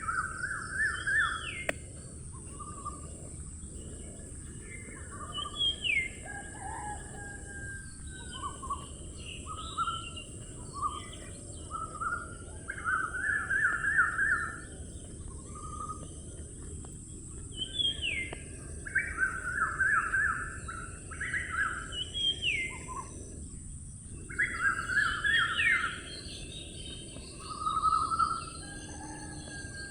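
Birdsong: short fast trills and rising whistled notes repeated again and again, over a steady high hiss.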